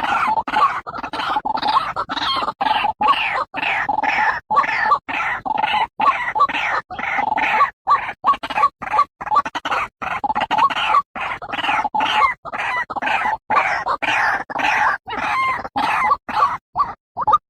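White-breasted waterhen (ruak-ruak) calling: a recorded lure call made of a rapid, continuous run of harsh repeated notes, several a second. Near the end it thins to single short notes about twice a second.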